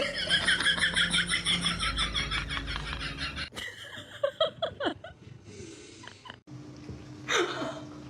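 A person laughing in rapid pulsing bursts. After an abrupt cut come a few short sliding cries and, near the end, one falling cry.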